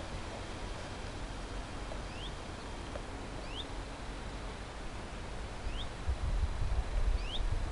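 A bird repeating a short, rising call note about every second and a half over outdoor background hiss. Near the end a low buffeting rumble of wind on the microphone becomes the loudest sound.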